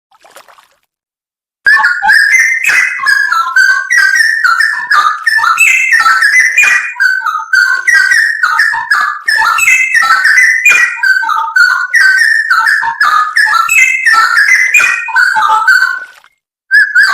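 Straw-headed bulbul (cucak rowo) singing a long, loud run of rapid whistled warbling notes. The song starts after a short silence about two seconds in, breaks off briefly near the end, then resumes.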